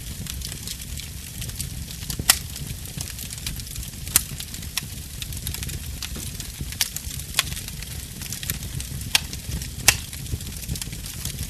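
A fire burning in a fireplace, crackling steadily over a low rumble, with about six sharp pops; the loudest come about two seconds in and near the end.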